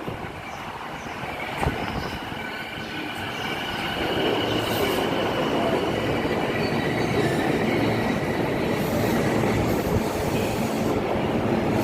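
Chuo Line electric train moving along the platform, its noise building over the first few seconds and then staying loud and steady, with a high whine or wheel squeal through the middle.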